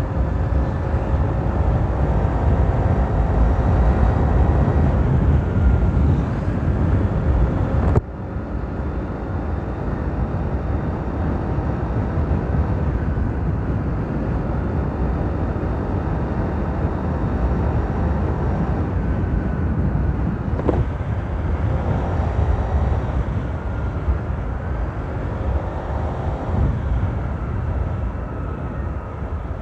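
Modified Honda PCX scooter riding along, its engine and CVT running under a heavy low rumble. A whine that slides up and down with the throttle comes from the CVT fan taken from a CBU PCX, the turbo-like 'ngiiiuuuung'. The level drops suddenly about eight seconds in.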